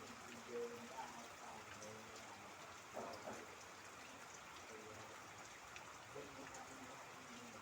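Rain falling steadily, a faint even patter, with a louder splash of drops about three seconds in. Faint distant voices are heard behind the rain now and then.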